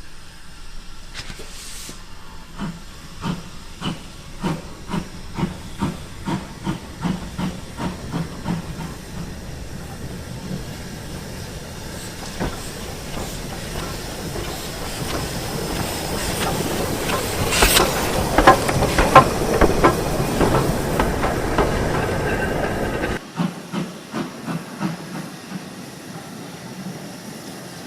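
Steam locomotive working, its exhaust beats coming about twice a second, then passing close with a growing hiss of steam and rapid clicking of wheels over the rails, loudest in the later middle. The sound drops abruptly about four-fifths of the way through.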